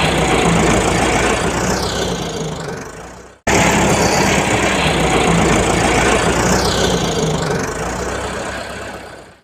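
An engine running steadily, heard twice as the same stretch of sound: it fades away, cuts off about three and a half seconds in, starts again at full level and fades away again near the end.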